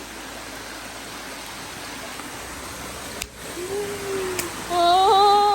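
Steady rushing of a small waterfall. About three and a half seconds in, a person lets out a long, drawn-out "ooh" of wonder, louder near the end.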